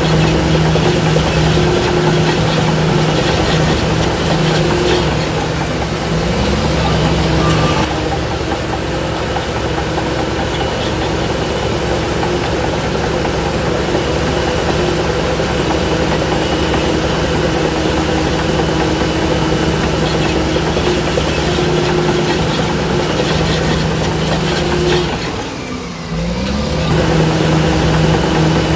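Heavy diesel engine of a Shantui DH17C3 crawler bulldozer running steadily under load. About 25 seconds in, its revs drop briefly and then pick back up.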